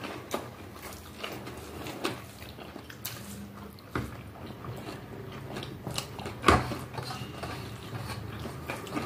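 Close-up eating sounds: chewing and mouth noises while rice is mixed and eaten by hand from a plate, with scattered small clicks and one louder sharp knock about six and a half seconds in.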